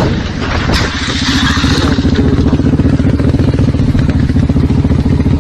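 Motorcycle engine running at a steady pitch with an even, rapid pulse. A few sharp knocks come in the first second.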